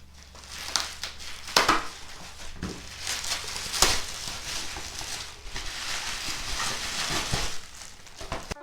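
Packaging being handled and opened: continuous rustling and crinkling, with a few sharp clicks and knocks.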